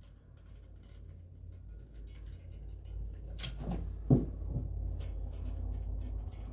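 Caulking gun laying a bead of construction adhesive on lumber: a few handling clicks and one sharper knock about four seconds in, over a low steady hum.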